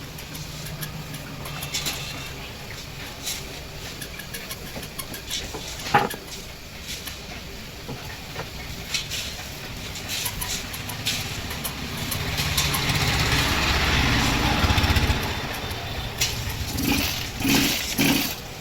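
Small petrol engine of a crop-spray machine running after a service. It swells in loudness about twelve seconds in and eases off a few seconds later, with one sharp knock about six seconds in.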